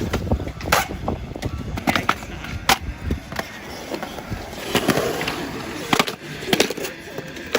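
Skateboard rolling, the wheels making a steady grinding noise, with sharp clacks of the board striking the ground several times.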